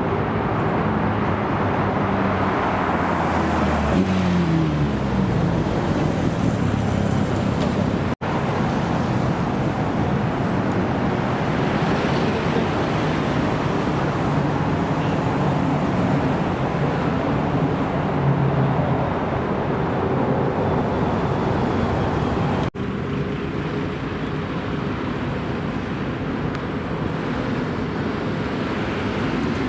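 Car engines running, with one engine note sweeping in pitch about four seconds in. The sound breaks off sharply twice, about eight and twenty-three seconds in, where one clip cuts to the next.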